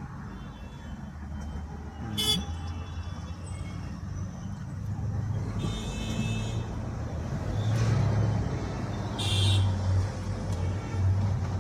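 Steady low road and engine rumble heard inside the cabin of a Honda Elevate SUV on the move, with vehicle horns honking three times: a short beep about two seconds in, a longer one of about a second midway, and another short beep near the end.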